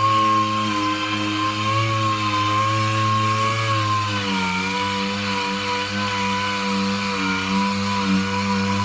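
Handheld electric power tool running steadily with a whining tone, its pitch dipping slightly about four seconds in as it takes load.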